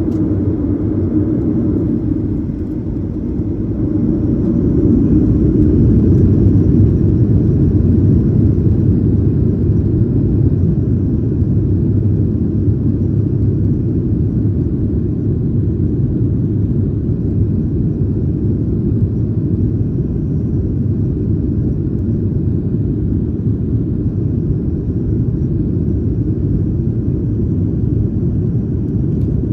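Cabin noise of a Boeing 737-900ER heard from a window seat: the CFM56-7B jet engines and airflow make a loud, steady low roar. The roar dips slightly a few seconds in, swells again and then holds steady.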